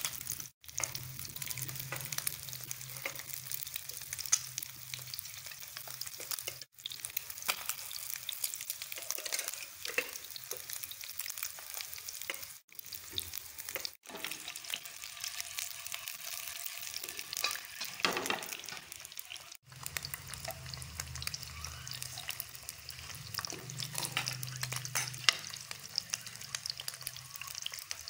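Boiled eggs frying in hot oil in a pan, a steady sizzle full of small crackles and pops, with a spoon stirring among them. The sound breaks off for an instant a few times.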